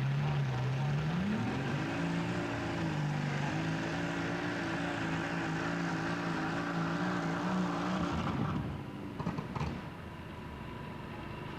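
A pulling tractor's engine running hard, rising in pitch about a second in and holding high, then dropping away about eight seconds in; a few sharp clicks follow.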